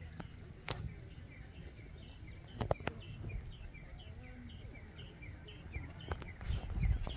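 A bird calling in short falling chirps, about three a second, over a low outdoor rumble, with a few sharp clicks; the rumble swells near the end.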